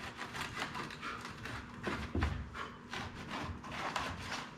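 Quick plastic clicks, taps and rubbing from an Infiniti G35 front grille being handled and pushed into place, with a heavier knock about two seconds in.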